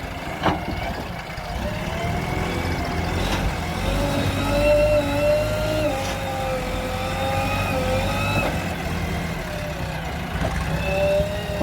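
Diesel engine of a JCB backhoe loader running under load, with a wavering whine that shifts slowly in pitch over the engine's rumble and a couple of sharp knocks.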